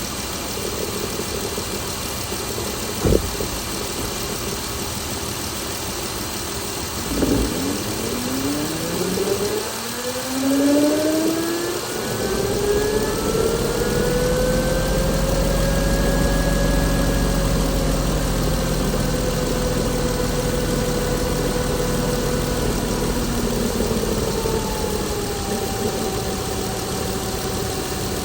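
Chrysler Pentastar 3.6-litre V6 engine running, with a sharp click about three seconds in and a knock a few seconds later. Then a whining tone rises over several seconds and the engine settles into a fuller, steady run, the whine slowly falling in pitch near the end.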